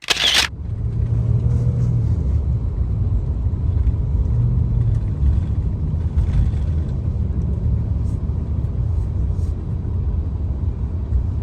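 Steady low rumble of a moving vehicle heard from inside, with a brief loud noise at the very start.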